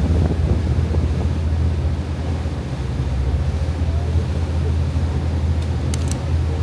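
Steady low rumble with wind on the microphone, with a couple of faint clicks near the end.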